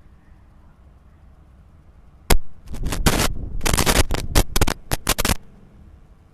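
Loud bursts of crackling static on the audio feed, opening with a sharp click about two seconds in and breaking off about three seconds later, over a faint low hum.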